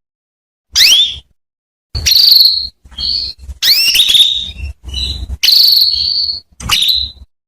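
Female canary calling: short upward-sweeping chirps a second or so apart, then a quicker run of calls from about two seconds in, some held as a steady whistle. These are a hen's calls to a male canary, used to set him singing.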